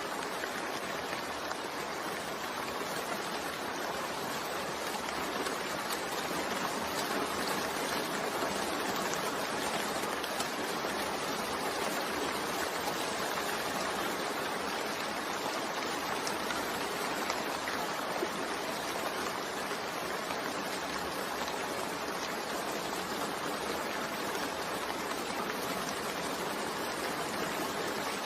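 Steady rainfall, an even hiss of falling rain with no breaks or distinct drops standing out.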